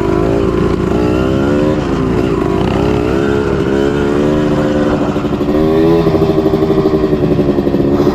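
Trail motorcycle engine revving, its pitch rising and falling with the throttle, then held at a steadier, slightly louder pitch for the last couple of seconds.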